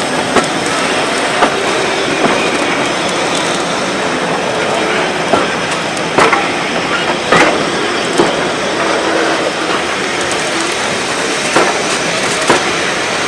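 Railway train running along the track: a steady rolling rumble with irregular sharp clicks as the wheels pass over rail joints, and a brief faint wheel squeal or two midway.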